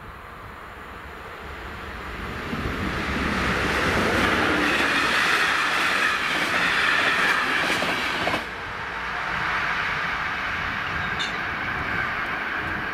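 A passenger train passing the level crossing, its wheels clattering over the rails. It builds up over the first few seconds and is loudest until about eight seconds in, then drops suddenly and runs on more quietly.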